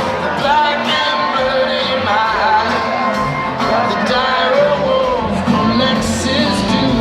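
Live rock band playing a country-tinged song, with sung vocals over guitars and drums.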